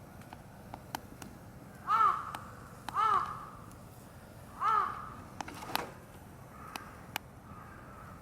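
A bird calling loudly three times in quick succession, with fainter calls near the end, over the scattered crackling pops of a wood campfire.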